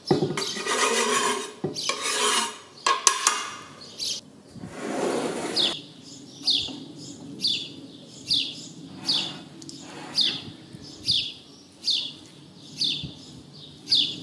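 A knife blade scrapes chopped herbs off a wooden cutting board into a bowl in three long rasping strokes. Then a spatula mixes grated cheese and herbs in a ceramic bowl, scraping around the bowl in a steady rhythm of about two strokes a second.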